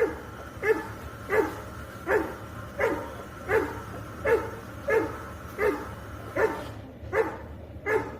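Labrador Retriever barking repeatedly at a steady pace, about one bark every three-quarters of a second, a dozen barks in all.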